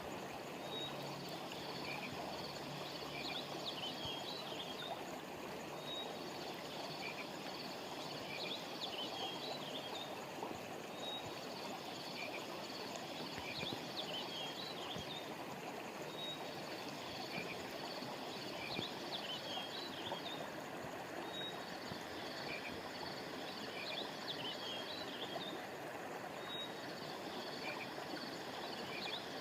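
River water flowing steadily, with clusters of high chirping that recur about every five seconds.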